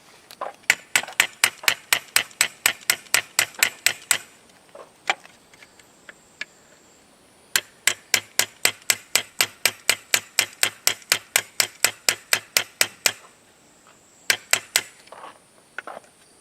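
Hammer striking a part in quick, even taps, about three or four blows a second, in two long runs with a pause between and a brief burst of blows near the end.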